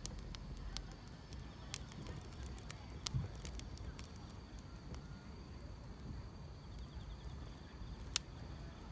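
Firewood burning: sharp crackles and pops every second or so, the loudest near the end, over a low steady rumble of the fire. Insects chirp faintly and steadily in the background.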